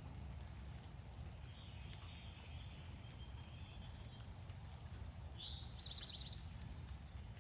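Backyard songbirds calling faintly over a steady low outdoor rumble. A few thin high chirps come in the first half, then about five and a half seconds in a clearer call: one short swept note followed by a quick run of rapid notes.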